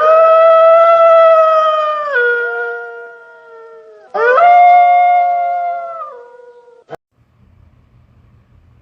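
Wolf howl sound effect: two long howls, the first rising at its start, holding, then dropping a step in pitch about two seconds in and fading; the second begins about four seconds in and ends with a short click near seven seconds.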